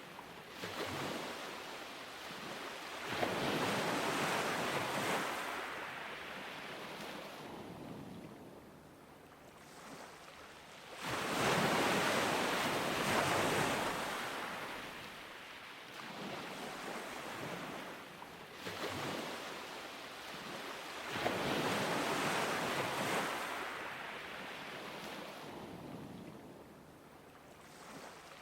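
Ocean surf breaking on a beach: the rush of each wave swells up, then hisses away, with three big surges about eight to ten seconds apart and a smaller one between them.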